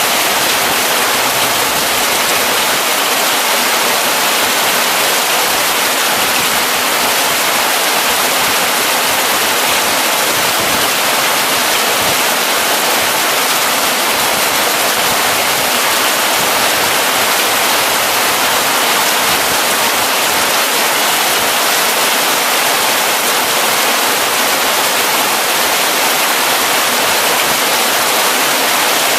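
Heavy rain pouring down: a loud, steady, dense hiss, with no thunder.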